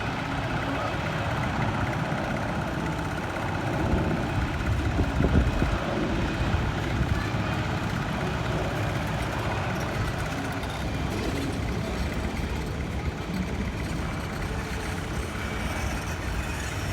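Steady engine rumble with broad noise over it, swelling a little about four to six seconds in.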